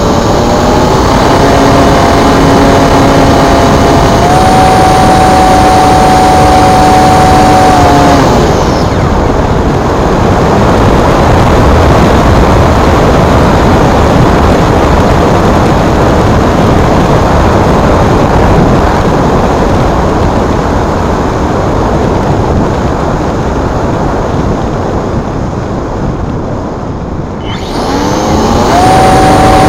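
Brushless electric motor of a Multiplex Blizzard RC glider spooling up to a high, steady whine, stepping up in pitch about four seconds in, then cutting off after about eight seconds. A loud steady rush of wind noise follows, and the motor whines back up again near the end.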